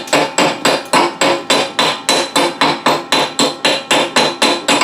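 Steel chisel chipping slag off a fresh 6024 stick-weld bead: rapid, even metal-on-metal strikes about four a second, each one ringing.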